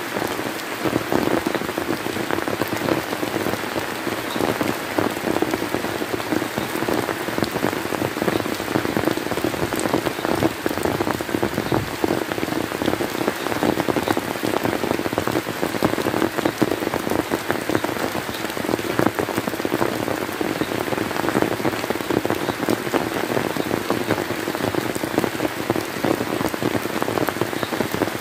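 Steady rain falling and pattering on surfaces, a dense, even mass of drop impacts.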